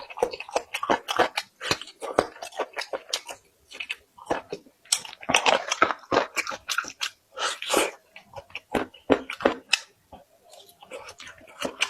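A person chewing food with mouth open to the sound, with irregular crunches throughout.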